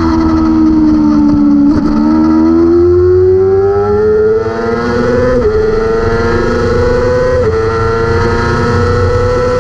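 A 600cc racing motorcycle engine at high revs, falling in pitch as it slows, then climbing hard under acceleration with two upshifts, each a sudden drop in pitch, about five and seven and a half seconds in.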